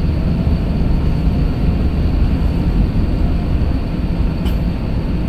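Steady low rumble of an Airbus A321-200's cabin on the ground, the engines running and the air system blowing, heard from a rear window seat. A faint click about four and a half seconds in.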